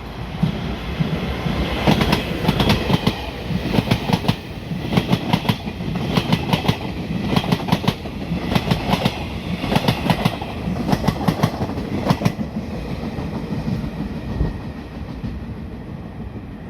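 Taiwan Railways Chu-Kuang express passenger train passing at speed: repeated clickety-clack of its wheels over the rail joints above a steady rumble, dying away about twelve seconds in.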